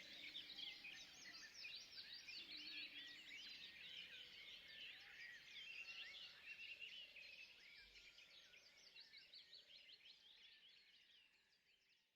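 Chorus of many small forest birds chirping and twittering over each other, fading out over the last few seconds.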